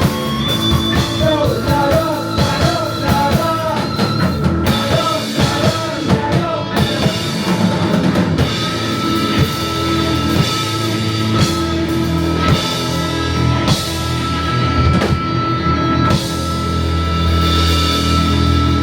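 A live psychedelic rock band, with drum kit, bass, electric guitar and electric violin, playing loudly. In the first half a lead line runs in quick wavering notes. From about halfway a single high note is held over busy drums, and the bass swells near the end.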